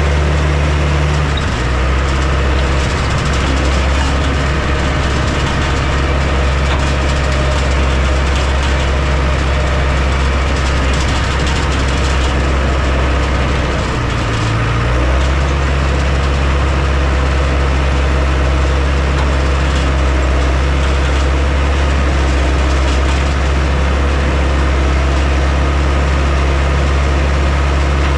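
Heavy earthmoving machine's engine running steadily with a deep drone, its note shifting about a second and a half in, then dipping briefly and picking back up about halfway through.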